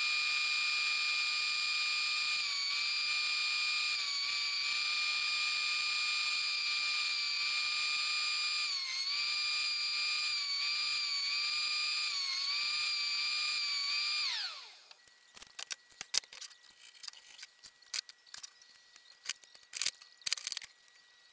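WEN benchtop thickness planer running with a high steady whine, its pitch dipping briefly several times as boards load the motor. About fourteen seconds in it is switched off and the whine falls away. Then scattered light knocks and clicks of wooden strips and bar clamps being handled.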